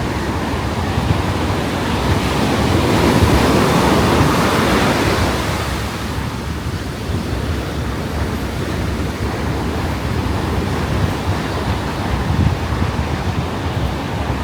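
Ocean surf washing onto the beach, one wave swelling and fading between about two and six seconds in, with wind rumbling on the microphone.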